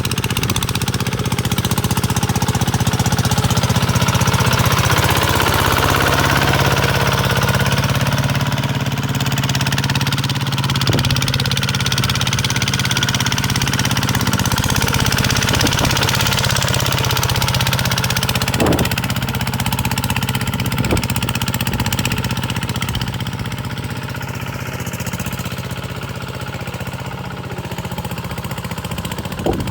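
Tractor engine running steadily, with a few sharp knocks or clanks now and then. It gets a little quieter in the last several seconds.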